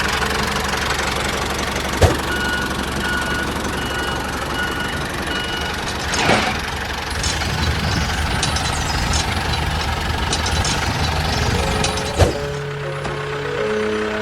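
Small engine running steadily with a low rumble, with two sharp knocks, one about two seconds in and one near the end. Near the end the engine falls away and music takes over.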